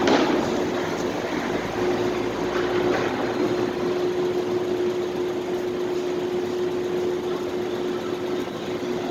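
Parking lot ambience: a steady machine hum and hiss with one constant drone tone, with a brief knock at the very start and a fainter one about three seconds in.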